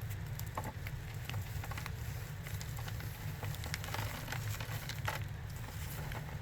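Dusty crunchies made of Ajax cleanser powder and cornstarch being crunched, giving irregular crisp crackles that come thickest in the middle.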